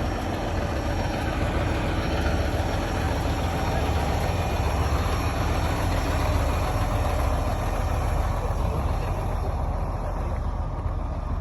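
Heavy truck engine running, a steady low rumble with road noise.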